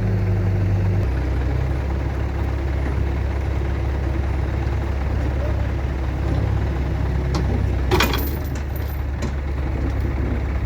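Heavy diesel engine running steadily, dropping to a lower speed about a second in, with a short sharp hiss near the end.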